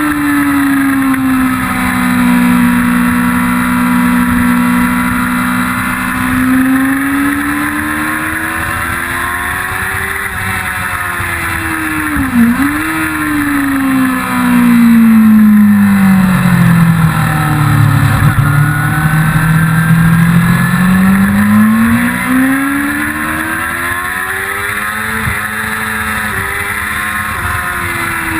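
1999 Yamaha R6's 600 cc inline-four engine at track speed, its note rising and falling with the throttle. Brief sharp dips come at gear changes, and about two-thirds of the way through it drops to its lowest revs before pulling back up.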